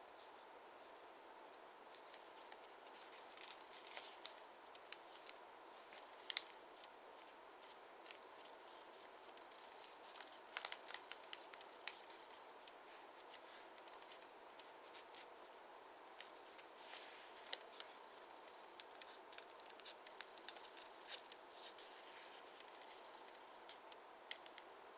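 Faint handling of a sheet of origami paper as it is folded and creased: scattered soft crinkles and taps, a few sharper ones, over a steady low hiss.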